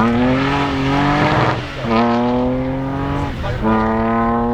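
Rally car engine pulling hard under acceleration, its pitch climbing and dropping back at two quick gear changes, about two seconds in and again past three and a half seconds.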